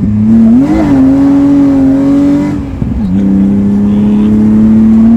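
BMW E30's newly swapped-in engine running hard under acceleration, heard from inside the car: a strong steady engine note that dips sharply about three seconds in, as at a gear change, then slowly climbs again.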